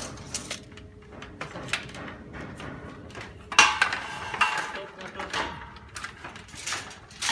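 Metal parts clattering and knocking during work on an exhaust fan installation, with a loud ringing metallic clang about three and a half seconds in and another near the end.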